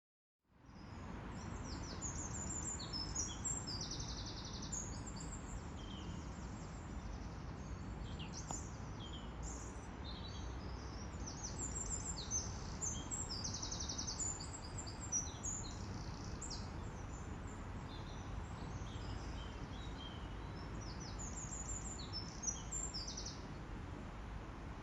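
Small birds chirping and trilling repeatedly over a steady low background rumble, starting about half a second in.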